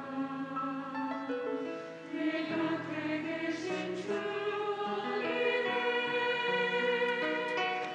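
Church choir singing a worship song in sustained, shifting chords.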